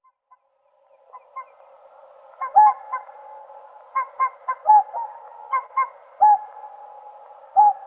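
Whooper swans calling, starting about a second in: short, loud honking whoops, often in twos and threes, over a steady background of calls from more birds.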